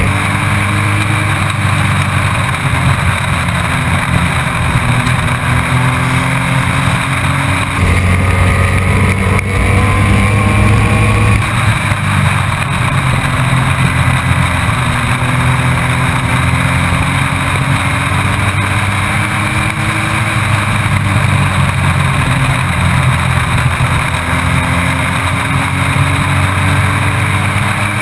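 Race truck engine heard from inside the cab, running hard under load, its pitch climbing steadily and dropping sharply as the driver lifts and gets back on the throttle lap after lap.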